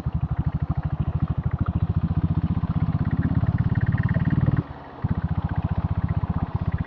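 Diesel Royal Enfield Bullet's single-cylinder engine running under way, a rapid, even train of exhaust beats that drops away briefly a little past halfway before picking up again.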